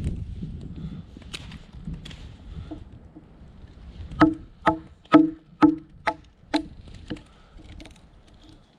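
Small firewood being split by batoning: a wooden baton strikes a knife spine through the wood in a quick series of about seven ringing knocks, roughly two a second, starting about halfway through. Wind rumbles on the microphone before the strikes.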